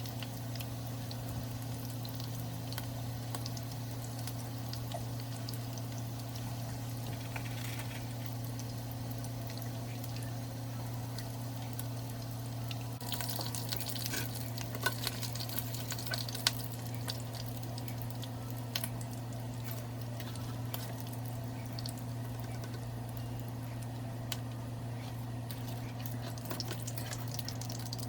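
Tacos frying in a pan of hot oil, sizzling and crackling steadily over a constant low hum. The sizzle grows louder about halfway through, with a few sharp pops.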